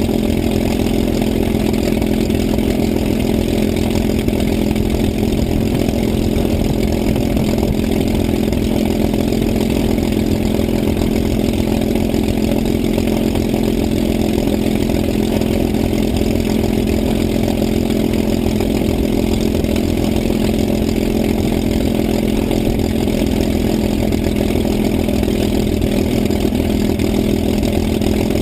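An engine running steadily at a constant speed, without any change in pitch or level.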